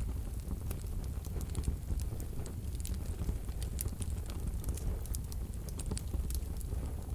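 Wood fire burning in a wood-burning stove: a steady low rumble of the flames with frequent sharp, irregular crackles and pops from the burning logs.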